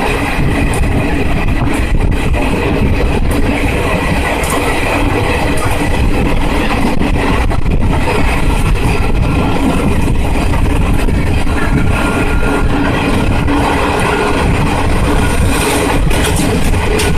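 Passenger train running at speed: a steady rumble of wheels on track with rattling clatter throughout.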